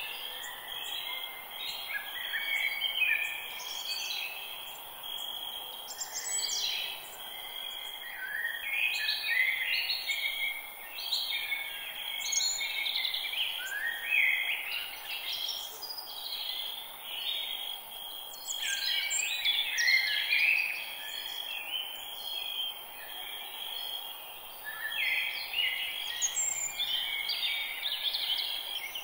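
Forest birds singing, several songs overlapping in short phrases every second or two, over a steady high-pitched hum and a faint hiss.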